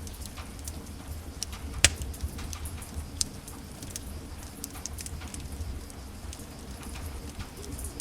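Wood fire in a fireplace crackling: irregular small snaps over a steady low rumble of the flames, with one loud pop a little under two seconds in.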